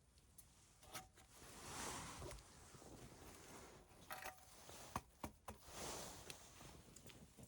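Faint rustling and handling noise, with two longer swells of rustle and several sharp clicks and knocks in between.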